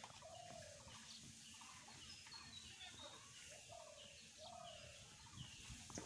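Faint bird calls: short pitched notes repeating every second or so, some lower and some higher, over quiet outdoor background noise.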